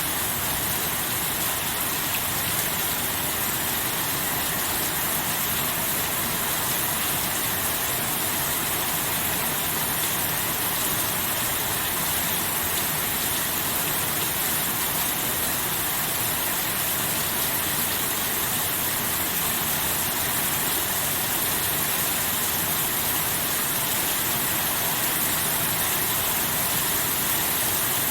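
Steady rain falling, an even hiss with no thunder or single drops standing out.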